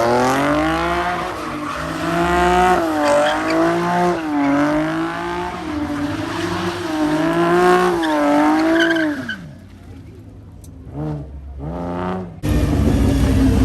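A car engine revving hard and held high, its pitch swinging up and down every second or so. It falls away about nine and a half seconds in, gives two short revs, and a loud rush of car noise comes in near the end.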